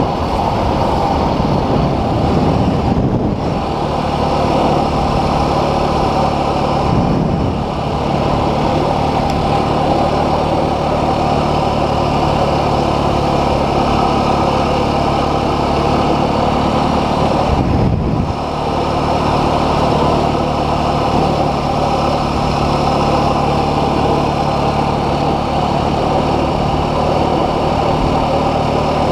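Dual-sport motorcycle engine running steadily, with brief changes in its note about three, seven and eighteen seconds in.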